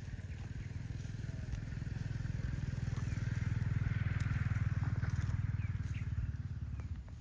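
A small engine running with a fast, even pulse, growing louder to a peak about four seconds in and then fading.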